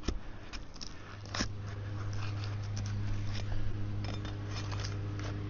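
Asphalt shingles being pried free of their sealant strip by hand and tool, giving scattered clicks and crackles over a steady low hum.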